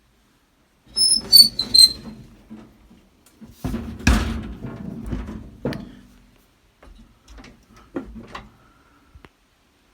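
High-pitched squeaks about a second in, then a loud thump near the middle, followed by a few scattered knocks and clicks.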